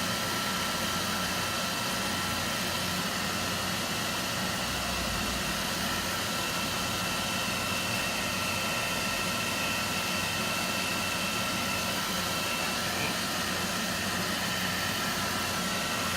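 Handheld hot-air dryer running steadily to dry wet chalk paste, a blowing rush with a high, thin whine over it.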